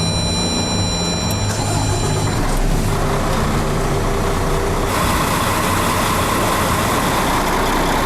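KAMAZ 5490 truck's diesel engine being started and running, just after a valve-train repair with new roller tappets and a reground camshaft. A high steady electronic tone sounds for the first two seconds or so. The engine sound builds about three seconds in and gets louder about five seconds in.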